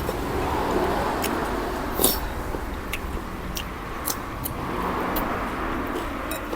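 Someone eating a bowl of noodle soup: a series of sharp, short clinks of utensils against the bowl over a steady low background rumble.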